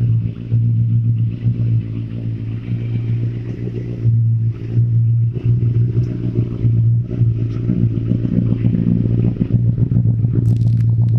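Benelli TNT 600i inline-four engine running at low revs through an IXIL aftermarket exhaust, a steady deep note that swells and dips, with a few sharp crackles near the end.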